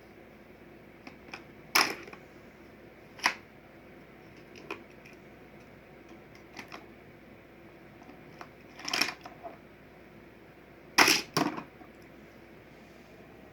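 Plastic toy playset and die-cast toy cars clacking: scattered sharp knocks, with a loud double knock near the end.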